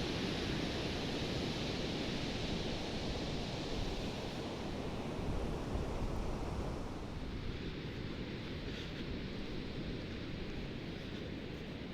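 Ocean surf rushing on a beach, with wind on the microphone. The wash is steady and grows duller and quieter about seven seconds in.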